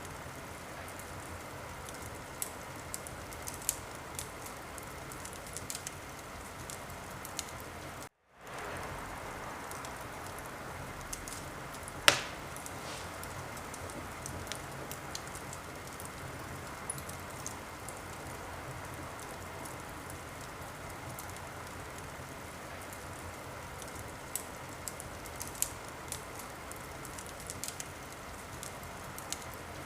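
Wood fire crackling: a steady hiss with scattered small pops and one loud, sharp pop about twelve seconds in. The sound cuts out for a moment about eight seconds in.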